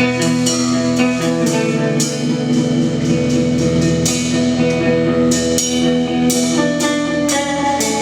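Live instrumental post-rock played by electric guitar, electric bass and drum kit: sustained guitar notes over a bass line, with regular cymbal and drum hits.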